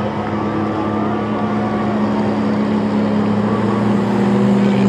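Race truck engines running at a steady drone, growing a little louder toward the end.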